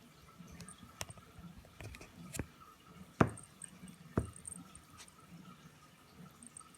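Miniature dachshund hiccuping while chewing a dog chew: a few small, sharp clicks, the two loudest about a second apart near the middle, with faint wet chewing sounds.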